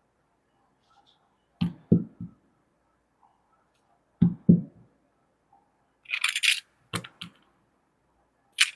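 Small plastic toy pieces being handled and set down on a hard surface, several short knocks, mostly in pairs, with a brief scratchy rattle about six seconds in.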